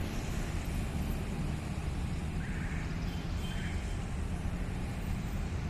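Diesel locomotive engine running during shunting, a steady low rumble.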